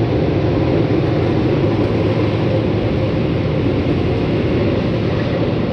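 Automatic car wash equipment running, heard from inside the car: a loud, steady rushing noise with no breaks.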